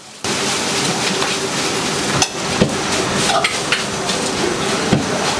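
Steady sizzling hiss of food frying, with a few sharp clinks of utensils.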